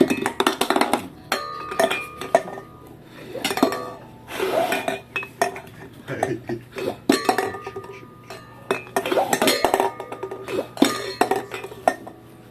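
Repeated hard puffs of breath blown into a cup, each followed by a soda can knocking, clattering and clinking against the cups as it jumps and lands. This happens over several attempts.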